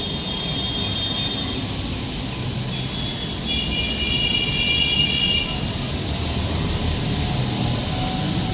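A train running, with a steady low rumble. Two spells of thin high tones sound over it, one early on and a stronger one around the middle.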